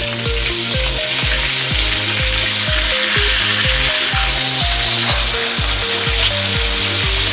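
Food sizzling in hot oil, a steady frying hiss, over background music with a steady beat of about three thumps a second.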